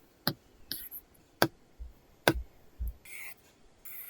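Apple Pencil tip tapping on an iPad screen with a paper-texture film, three sharp taps about a second apart, then short scratchy pencil strokes on the film near the end.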